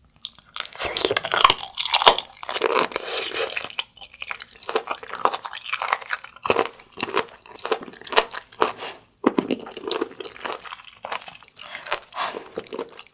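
Close-miked chewing of a piece of abalone: dense, crunchy bites for the first few seconds, then slower, separate chews.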